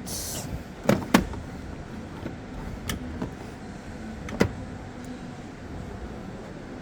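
A display washing machine being handled: a handful of sharp clicks and knocks, the loudest two close together about a second in and another about four and a half seconds in, over steady shop background noise.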